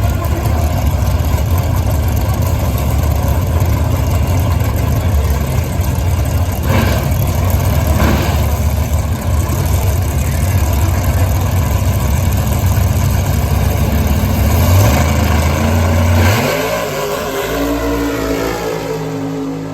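Drag car's engine running loud with a heavy low rumble and a couple of sharp cracks. Near the end the rumble drops away, and the engine note shifts in pitch and fades.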